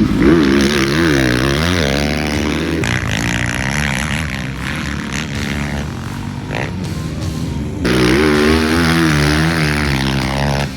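Motocross bike engines revving, pitch rising and falling repeatedly as riders work the throttle through the track, getting louder about eight seconds in.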